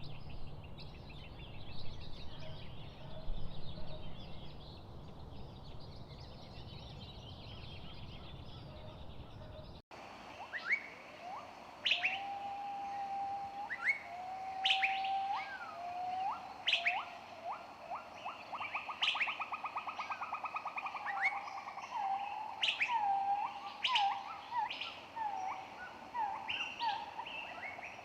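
Songbirds singing: for the first ten seconds a dense chorus of high chirps over a low steady rumble, then a sudden change to a clearer song of separate whistled notes, sharp upward-sweeping calls and a fast buzzy trill.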